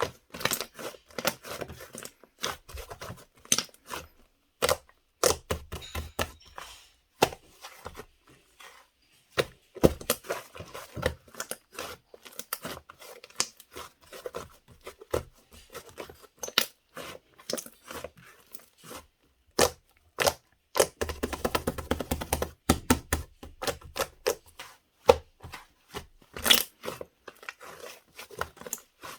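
Fluffy slime being pressed, stretched and folded by hand, giving irregular crackles, clicks and pops of trapped air, with a denser run of crackling about two-thirds of the way through.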